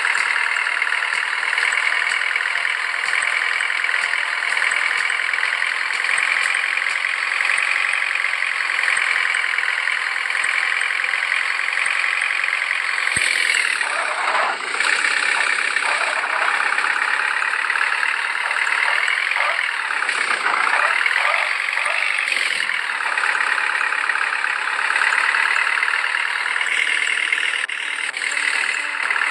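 A motor or engine running steadily, its pitch dipping and recovering twice around the middle.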